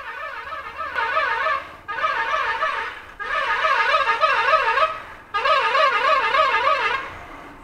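A horn sounds in four long blasts, its pitch warbling quickly and evenly up and down, about five times a second.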